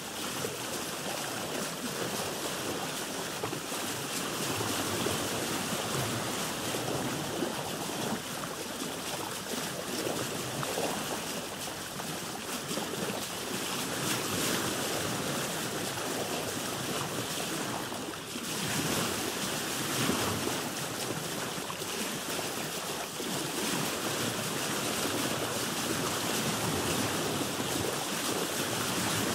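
Sea waves washing and splashing steadily around a boat, with wind.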